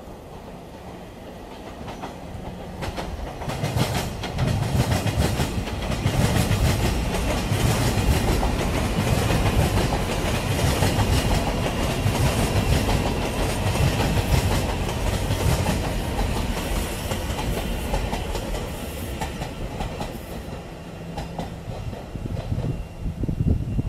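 A Taiwan Railways Puyuma express, a TEMU2000 tilting electric multiple unit, passes close by as it pulls into the station, its wheels clattering in a steady rhythm over the rails. The sound builds over the first few seconds, stays loud through most of the passage, and eases off near the end.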